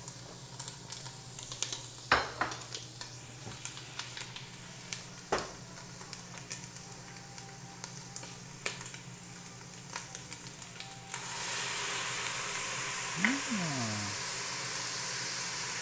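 Diced chicken gizzards sizzling in a hot stainless steel pot, with a few sharp clicks of a utensil against the pot as they are stirred. About eleven seconds in, a sudden loud, steady hiss starts as the reserved gizzard broth hits the hot pot and throws up steam.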